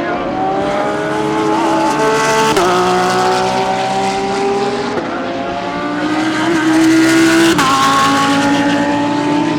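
GT3 race car engines accelerating hard, the pitch climbing steadily and dropping sharply at each upshift, three times, as the cars go by loudest near the end.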